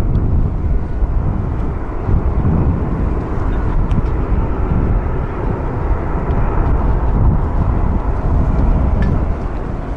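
Boeing 737-800's CFM56 turbofan engines: a loud, steady rumble.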